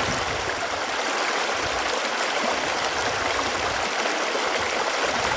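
Running water flowing steadily: an even, unbroken rushing with no pauses.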